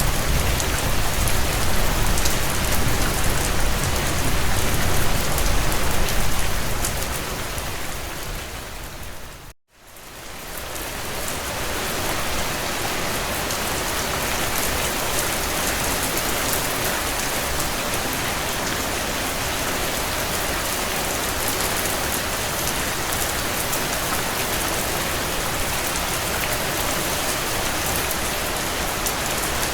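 Heavy rain pattering steadily on window panes, with fine scattered crackles and a low rumble in the first several seconds. About ten seconds in, the sound fades briefly to silence and then swells back up.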